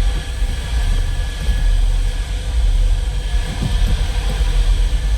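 Coin-operated car-wash vacuum running steadily: a loud, even rumble with a faint steady whine above it.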